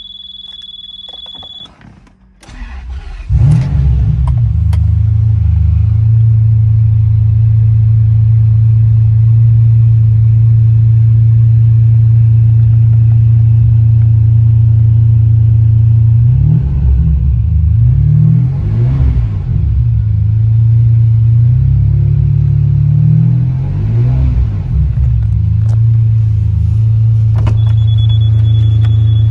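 Ferrari 550 Maranello's 5.5-litre V12 cold-started: a steady dashboard warning tone, then the starter cranks briefly and the engine catches about three seconds in and settles into a steady cold idle. It is revved several times in quick succession past the middle and once more a little later, dropping back to idle each time.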